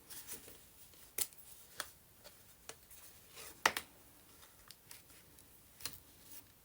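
Scattered light clicks and taps of small objects being handled on a tabletop, with the sharpest click about three and a half seconds in.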